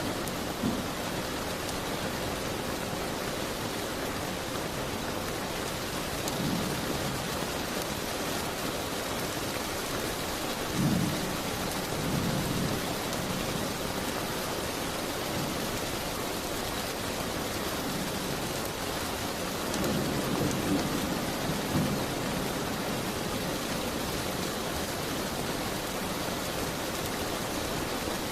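Steady rain falling, an even hiss throughout, with a few brief low rumbles about six, eleven, twelve and twenty to twenty-two seconds in.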